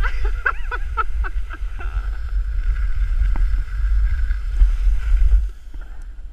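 Snow hissing and scraping under a person glissading down a steep snow slope, with a low rumble of wind buffeting the microphone. A short run of vocal sounds from a person comes in the first second or so, and the noise drops sharply about five and a half seconds in, as the sliding stops.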